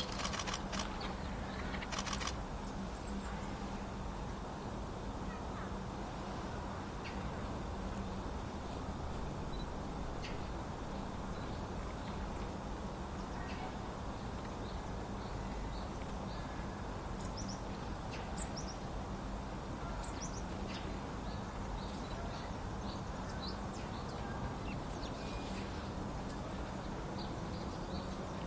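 Wild small birds giving scattered short chirps and calls over a steady low background rumble with a faint hum. A louder, harsher run of calls comes in the first couple of seconds.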